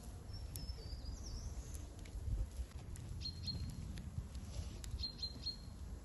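Songbirds chirping in short, high whistled notes, several times over, with faint crackles from a smoking charcoal fire and a low rumble underneath.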